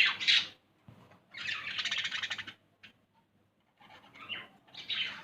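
Baby lovebird calling in raspy, rapidly pulsed chirps, in several bursts: one at the start, a longer one of about a second, then two more near the end.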